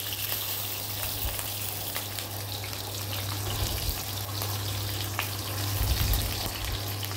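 Besan-stuffed green chillies shallow-frying in oil in a kadhai: a steady sizzle with scattered small pops and crackles. Near the end there is soft knocking as the chillies are pushed around in the pan by hand.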